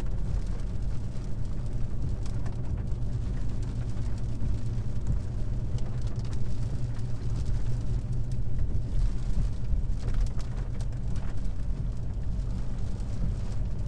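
Car interior road noise while driving: a steady low rumble of engine and tyres heard from inside the cabin.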